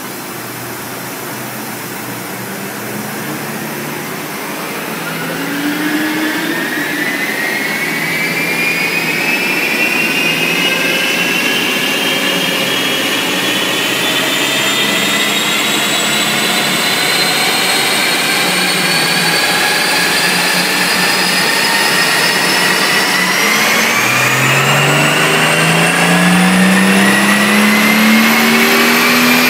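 2010 Mercedes-AMG SL65's twin-turbo V12 running under load on a chassis dynamometer, its rear wheels turning the rollers. Engine pitch climbs slowly and steadily as speed builds, with a high whine rising alongside. The sound gets gradually louder, and the pitch steps up about 24 seconds in.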